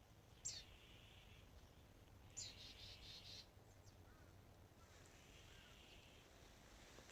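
Faint bird calls over quiet outdoor ambience: two sharp chirps sweeping downward, about two seconds apart, each trailing into a short high note, then a softer call a little past the middle.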